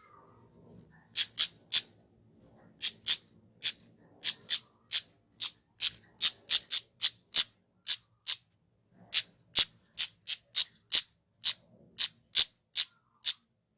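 Kemade flowerpecker giving a long series of short, sharp, high calls, about two to three a second, with brief pauses between runs.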